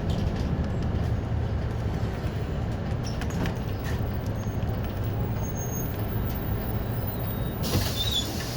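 City bus running on the road, heard from inside: a steady engine hum with road and tyre noise. A burst of hiss comes in near the end.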